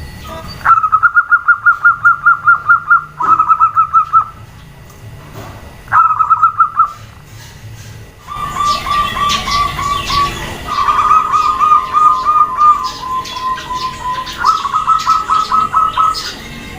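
Zebra doves (perkutut) cooing in rapid staccato trills of evenly spaced notes. Three separate trills come in the first seven seconds; from about eight seconds in, several birds call over one another with faint higher chirps.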